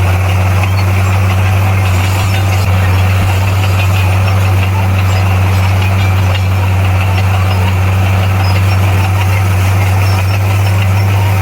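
Bulldozer's diesel engine running steadily at constant speed, a deep, even hum with no change in revs.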